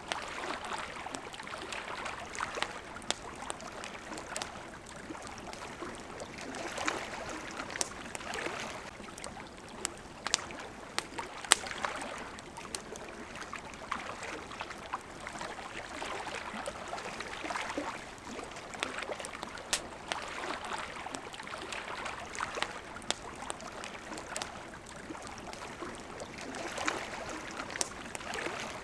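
Small waves lapping at a shore, swelling every couple of seconds. A wood campfire crackles over the water with scattered sharp pops, the loudest about eleven seconds in.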